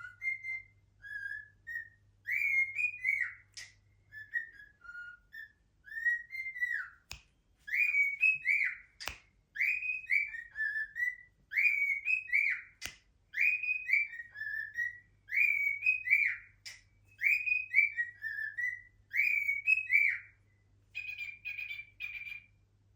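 Cockatiel whistling a song: short swooping whistled phrases repeated over and over, with a few sharp clicks in between and a buzzier note near the end.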